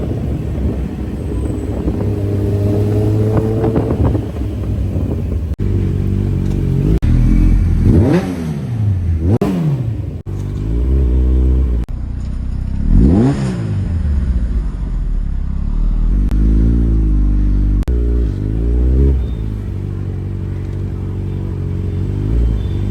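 Kawasaki Ninja motorcycle engine breathing through an aftermarket exhaust, idling between quick blips of the throttle: the pitch shoots up and falls straight back several times, the sharpest three in the middle. The sound breaks off abruptly a few times between takes.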